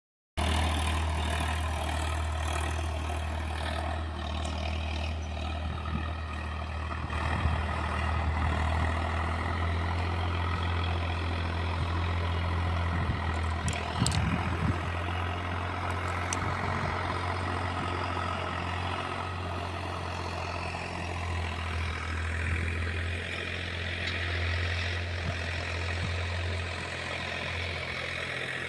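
An engine runs steadily with a constant low hum, with a few brief knocks about halfway through.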